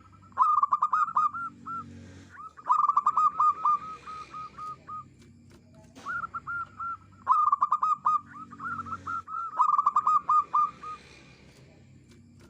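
Zebra dove singing its rapid, clipped cooing song: phrases of quick staccato notes, each a few seconds long, repeated about four times with short pauses between.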